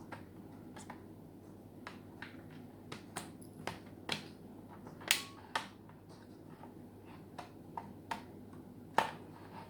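Irregular sharp clicks and taps of a laptop hard drive being handled and pushed at its drive bay in the laptop chassis, about a dozen in all, the loudest about five seconds in and again near the end.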